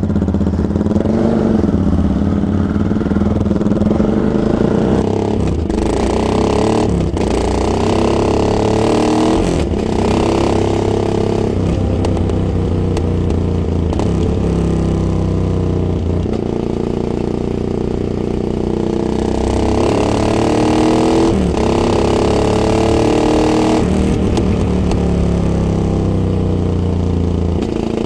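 Yamaha XTX 660's single-cylinder engine under way, its note rising as it accelerates and dipping at each of several gear changes.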